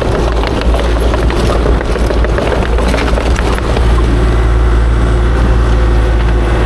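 Kubota KX040-4 compact excavator's diesel engine running steadily, growing louder about four seconds in as it takes more load, with scattered light clicks and knocks over the drone.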